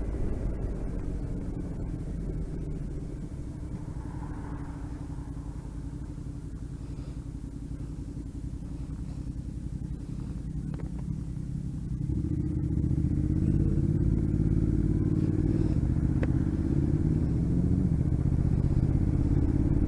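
Motorcycle engine running at low revs, then about twelve seconds in it picks up, running louder and higher as the bike pulls away.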